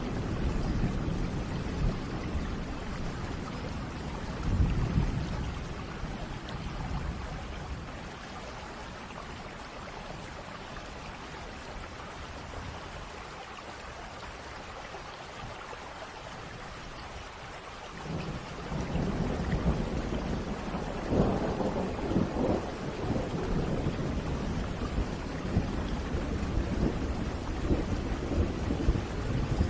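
Steady rain with rolling thunder. A low rumble comes about four seconds in, then rain alone for a while. A long roll of thunder builds from about eighteen seconds in and is loudest a few seconds later.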